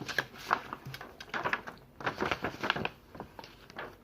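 Pencil scratching on paper in quick strokes, in three short runs of drawing.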